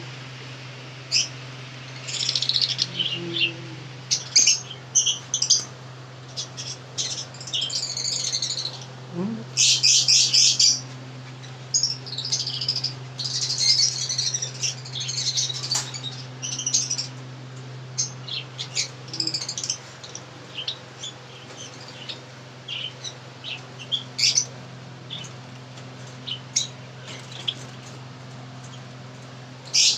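A group of pet birds chirping in quick, irregular clusters of short high calls throughout, with a steady low hum underneath.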